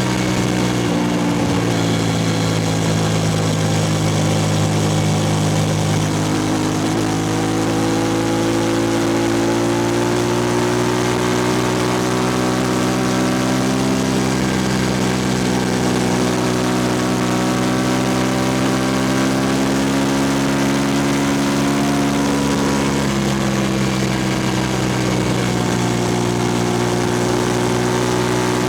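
Suzuki SV650S V-twin engine running at fairly steady revs through a Lextek exhaust with no dB killer. The pitch eases down slightly at the start, then holds nearly level, with a brief dip about 22 seconds in.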